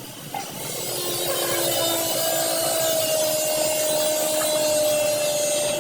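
Handheld abrasive power tool running against the car's bodywork: a steady whine over a rasping hiss that stops abruptly at the end.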